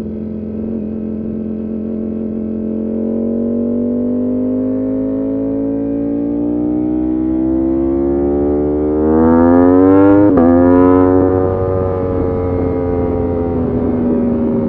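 Motorcycle engine pulling steadily at high revs, its pitch climbing slowly for about ten seconds. It breaks briefly, then the pitch sags slowly as it eases off.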